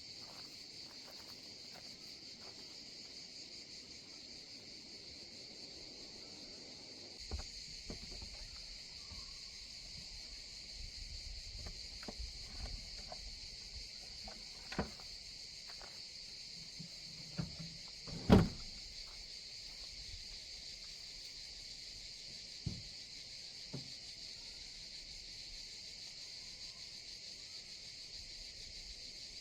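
Steady high-pitched chorus of insects singing, with a scattering of short knocks and clacks, the loudest about 18 seconds in.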